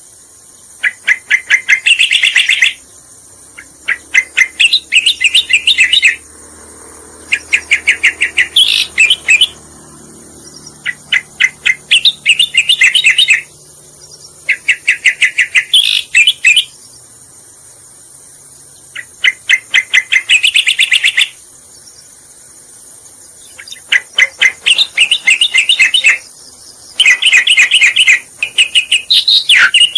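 Cica koreng (striated grassbird) singing as a recorded lure song: loud phrases of rapid, repeated chirping notes, each about two seconds long and often ending on higher notes, repeated about nine times with short pauses between. A steady high insect-like hiss runs underneath.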